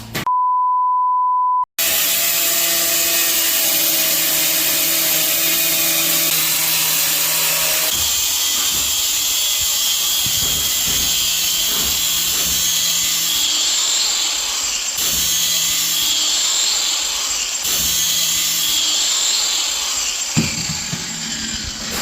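A short steady beep, then power tools running loud and steady on an interior renovation site. The motor hum comes and goes in the second half.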